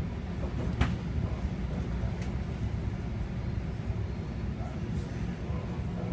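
Steady rumble of a passenger train coach rolling on the rails at about 30 mph, heard from inside the car, with a sharp click about a second in and a fainter one a second later.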